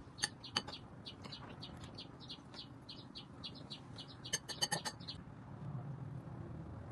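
A bird chirping over and over, several short high chirps a second, stopping about five seconds in. A few sharp clinks of a fork against a glass bowl, the loudest near the start and in a quick cluster about four and a half seconds in.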